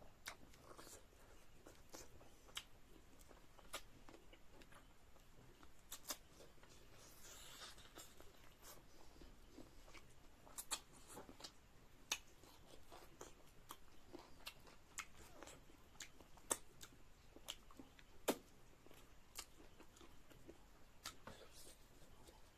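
Faint mukbang eating sounds: scattered small crunches and mouth clicks of chewing, with a few sharper clicks now and then.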